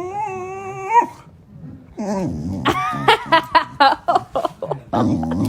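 A dog giving one long pitched whine-howl that stops about a second in, then, after a short pause, a quick run of short high yips and whimpers.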